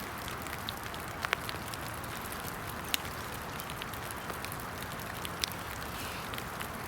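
Steady rain falling, an even hiss with scattered sharp ticks of drops striking.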